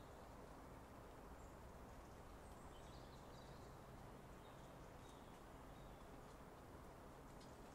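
Near silence: faint outdoor hush with a few faint, short, high chirps from small birds and a couple of light ticks near the end.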